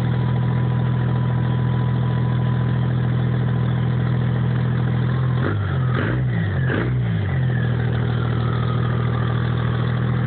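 Dodge Cummins turbo-diesel engine idling shortly after a cold start. About five and a half seconds in, the engine note briefly jumps up and down a few times with some sharp clicks, then settles back to a steady idle while a whistle slowly falls in pitch.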